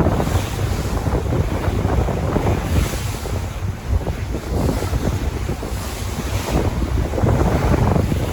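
Sea waves washing in repeated surges, with wind buffeting the microphone in a steady low rumble.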